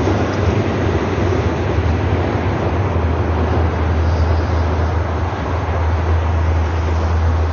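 A diesel-hauled train, a locomotive pulling a subway train set across a railway bridge, rumbling as it moves away. Its sound thins out within the first second or so, leaving a steady low outdoor rumble.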